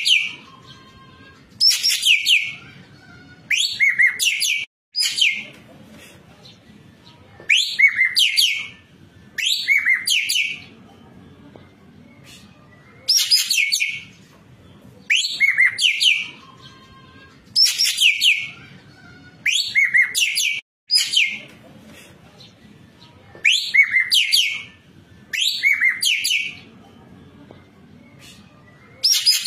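Ekek keling bird singing vigorously: short, shrill chattering phrases repeated about every two seconds, with a faint low hum in the gaps between them.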